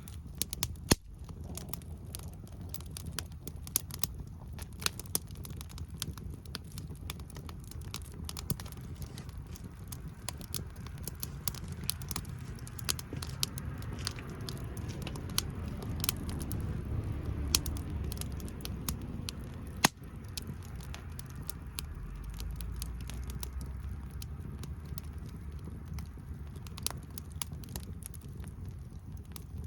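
Wood fire crackling, with frequent sharp pops and a low rumble of flame; two pops stand out loudest, about a second in and around twenty seconds in.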